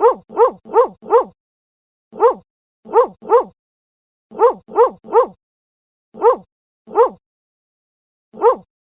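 Dog barking: short single barks in quick runs of four, three, three, two and then one, each run separated by dead silence, as in an edited sound-effect track.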